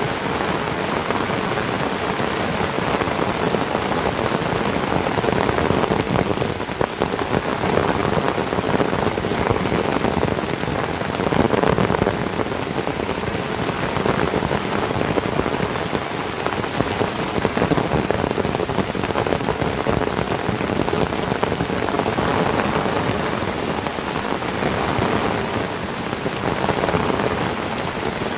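Heavy tropical rain falling steadily, a dense hiss of drops that rises and falls only slightly in loudness.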